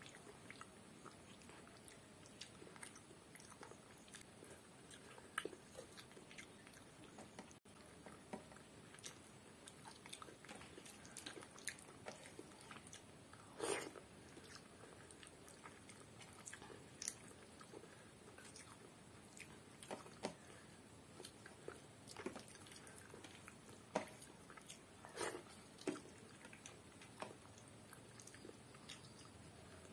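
Faint, close-miked chewing and wet mouth sounds of someone eating rice and curry by hand, with soft smacks and clicks scattered throughout; a few louder smacks stand out around the middle and again later on.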